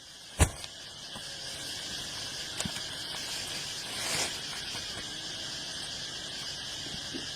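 Steady insect chirring, crickets or cicadas, with a single sharp knock about half a second in.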